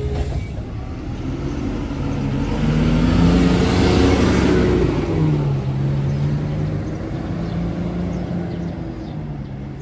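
Isuzu Erga city bus's diesel engine running. It rises in pitch and grows louder from about two seconds in, then drops back to a steady lower note after about five seconds.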